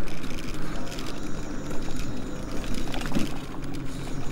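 A vehicle running steadily as it moves along, a low engine hum under rumbling road and wind noise, with a brief low knock about three seconds in.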